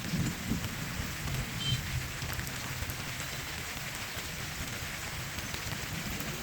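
Steady hiss of light rain falling outdoors, with an uneven low rumble underneath.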